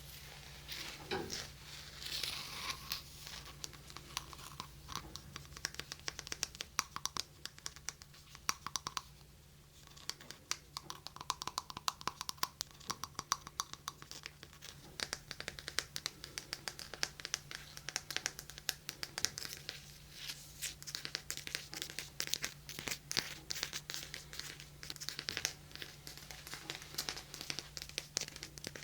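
Close-up ASMR hand sounds on a binaural microphone: rapid, dense tapping and scratching, many small crackly clicks, with a brief lull about nine seconds in.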